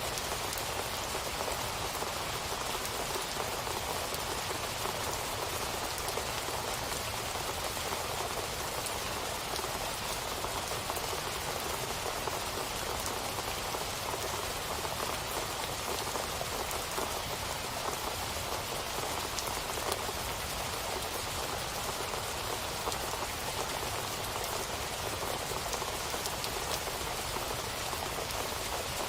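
Steady rain falling, an even hiss of drops with faint fine patter throughout.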